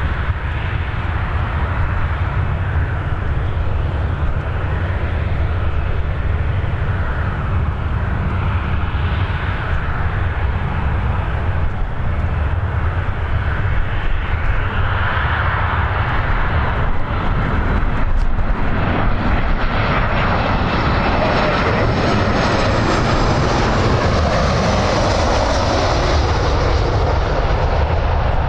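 Jet airliner engines, a continuous loud noise with a deep rumble that grows louder and brighter in the second half as the plane draws closer.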